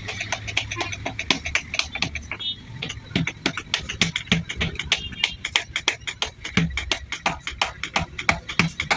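Rapid, irregular clicking and tapping, about six to eight sharp clicks a second, some with a dull low knock, from a hand tool working on the tyre during a cut-tyre repair.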